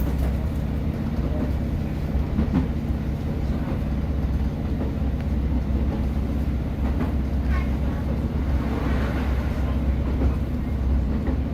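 Class 150 diesel multiple unit running along the line, heard from inside the carriage: a steady low diesel engine hum with rail noise and a few faint clicks from the track.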